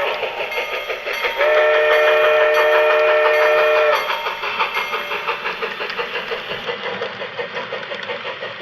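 Locomotive whistle: a short blast, then a long chord-like blast of about two and a half seconds, over the steady rhythmic beat of a running train.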